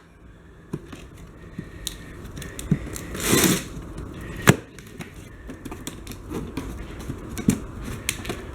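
Packaging being handled during an unboxing: scattered clicks and small knocks, a brief noisy scrape about three seconds in, and a sharp knock about a second later.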